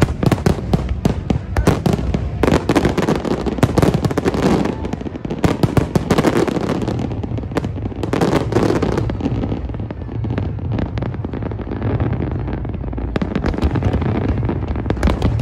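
Fireworks display: aerial shells bursting in fast volleys of bangs and crackling. The volleys thin out about ten seconds in and pick up again near the end.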